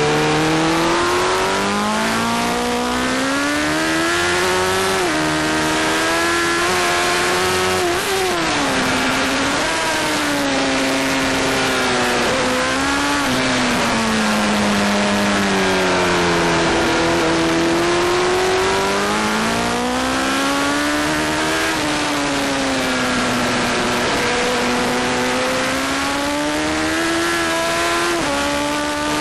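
Honda sport motorcycle's engine at racing pace, climbing and falling in pitch several times as it pulls through the gears and backs off into corners, revving from under 5,000 to over 10,000 rpm. A steady rush of wind runs underneath.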